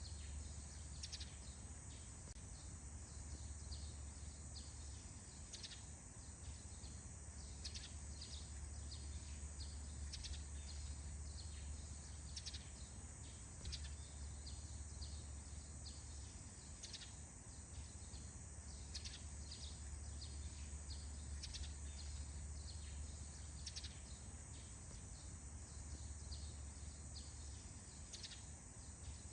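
Morning forest ambience: small birds giving short, scattered chirps, several every few seconds, over a steady low hum and a faint high hiss.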